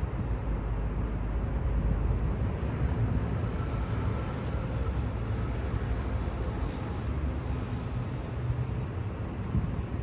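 Steady city traffic rumble: passing cars and road noise, deep and continuous.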